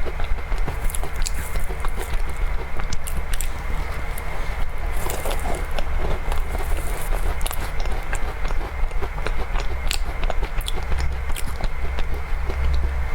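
Close-miked chewing of chocolate cake: many small wet mouth clicks and smacks over a steady low rumble.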